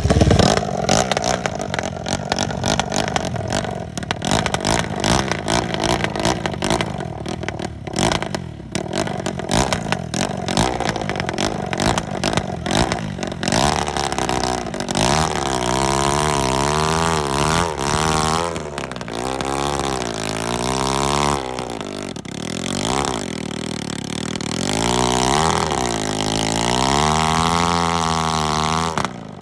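Suzuki RM-Z250 motocross bike's single-cylinder four-stroke engine running hard and rough for the first half, then revved up and down over and over in the second half. The owner calls the bike clapped out.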